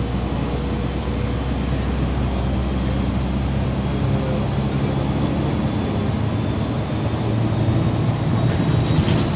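Inside a MAZ 203 city bus under way: the engine and drivetrain drone steadily, with a faint high whine slowly rising in pitch. A short sharp click comes near the end.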